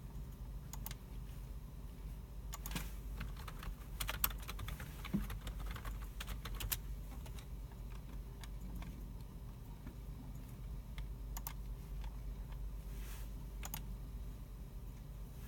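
Computer keyboard typing and mouse clicks, scattered and irregular, thickest in the first half, over a steady low room hum.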